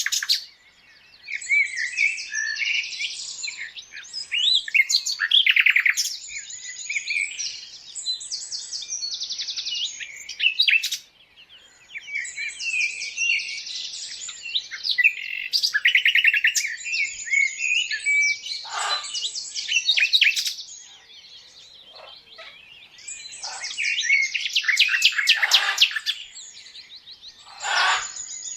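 Several birds chirping and trilling in quick, high-pitched phrases with short pauses between them, with a few harsher calls near the end.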